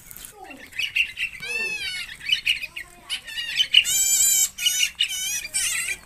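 Birds calling in a quick run of high, warbling chirps and squawks that waver up and down in pitch.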